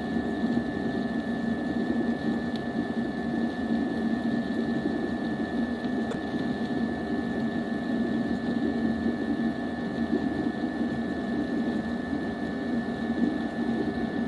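A small motor running with a steady hum and a constant high whine.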